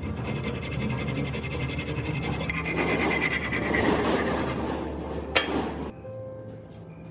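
Rough rasping and rubbing, like a file or abrasive worked by hand, growing louder through the middle. A single sharp click about five seconds in, then the scraping stops.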